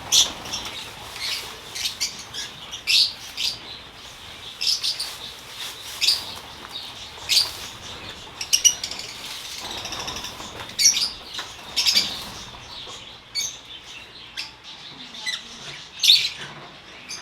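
A flock of African lovebirds making many short, sharp, high chirps and calls, several a second and overlapping, with wings flapping.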